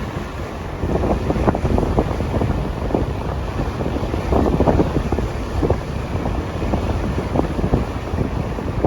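Strong storm wind buffeting the microphone in uneven gusts, over the rush of heavy surf.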